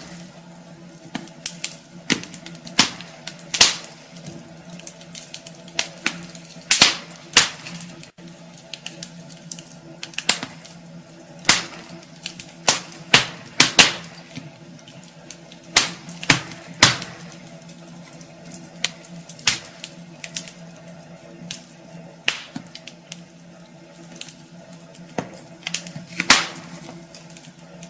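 Wood fire burning in a fireplace, crackling with irregular sharp pops, some of them much louder than the rest, over a faint steady hum.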